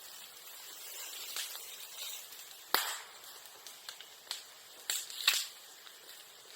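Bamboo and bamboo grass burning in a bonfire, crackling with scattered small ticks and a few sharp pops, the loudest crack about three seconds in and two more a couple of seconds later.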